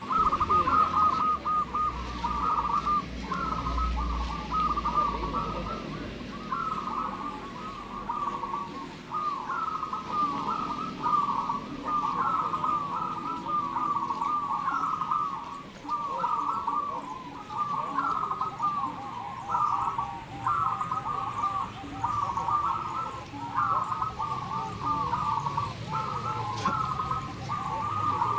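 Many zebra doves (perkutut) cooing together in a dense chorus of overlapping, repeated phrases, with a low rumble underneath in the first few seconds.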